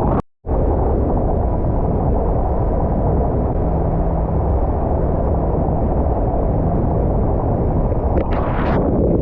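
Speedboat under way at speed: a steady, loud rumble of engines, water and wind buffeting the microphone. It cuts out for a split second just after the start.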